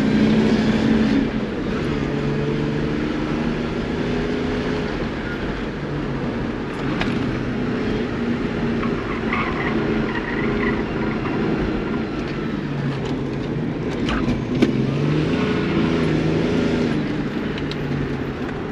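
Car engine on an autocross course, revving up and down repeatedly as it is driven hard through the corners.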